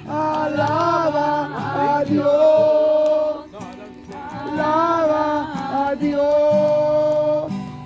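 Live worship music: voices singing long held notes of a praise song over steady instrumental backing.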